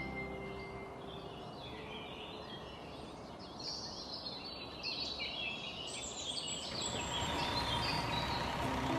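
Outdoor ambience of steady background hiss with birds chirping. Background music fades out about a second in.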